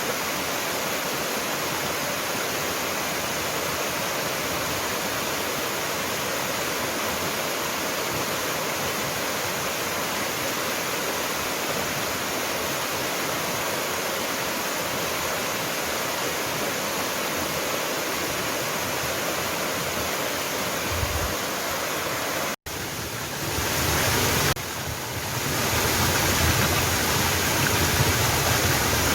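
Waterfall rushing in a steady, even hiss of falling water. About three-quarters of the way through it cuts out for an instant and comes back louder and deeper, with more low rumble.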